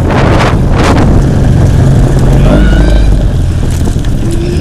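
Wind buffeting the microphone during a fast bicycle ride: a loud, steady low rumble, with a couple of rushing gusts in the first second.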